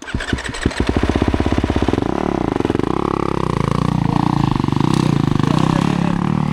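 Dirt bike engine starting: it fires right away, the firing quickens over the first couple of seconds, then it runs steadily at raised revs.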